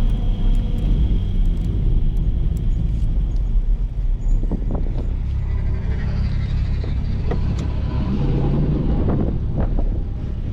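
Toyota GR Supra (A90) engine running at low speed, a steady low drone heard inside the cabin along with road noise, with a few short knocks partway through and near the end.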